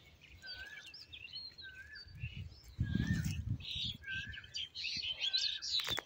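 Birds calling in open farmland: one bird repeats a short wavering call about once a second, with other chirps higher up. A low rumbling noise rises between about two and three and a half seconds in, and there is a sharp click near the end.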